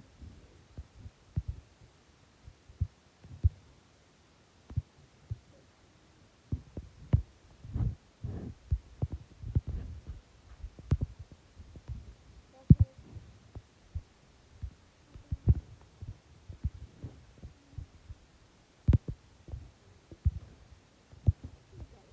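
Irregular muffled low thumps and knocks, at times several a second, with a few sharper clicks.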